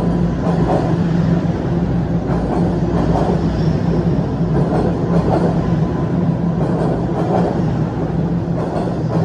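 TTC Line 1 Toronto Rocket subway train running at the platform, a loud steady low hum with faint irregular clatter.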